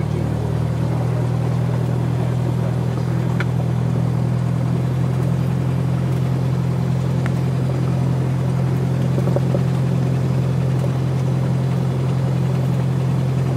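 Single-engine light airplane's piston engine and propeller running steadily, heard from inside the cabin as a loud, even drone. The drone gets a little louder shortly after the start.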